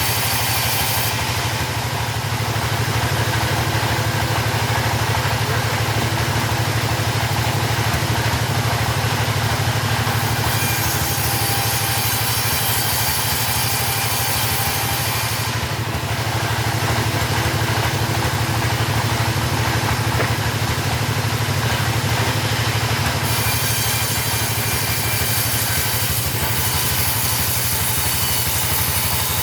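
Two-stroke chainsaw engine running steadily, the pitch of its high end shifting a few times as it works.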